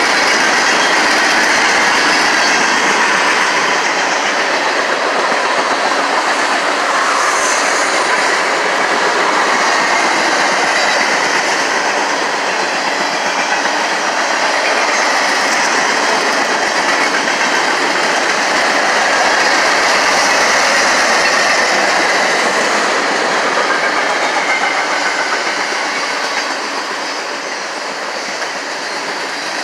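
An NS passenger train running on the rails, making a steady, loud rail noise that eases off a little near the end.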